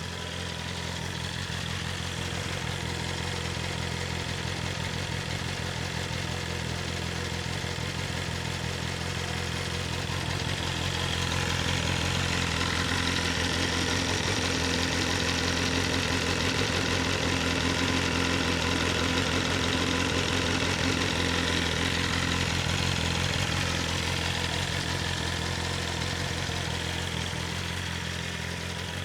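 BMW S1000RR inline-four engine running steadily through its stock Akrapovic exhaust. It gets louder and brighter for about ten seconds in the middle, then settles back.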